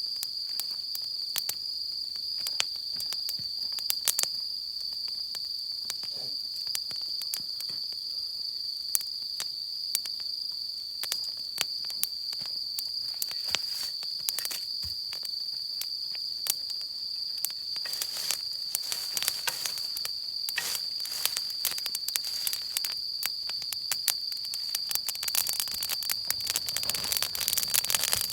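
Wood campfire crackling with scattered sharp pops that come thicker near the end, over a steady high-pitched insect trill.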